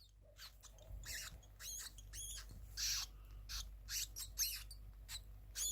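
Small rodent squeaking over and over in short, high-pitched, wavering chirps, about two a second.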